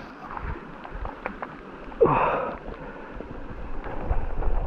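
A man's short exclamation, falling in pitch, about two seconds in, over a steady outdoor background hiss.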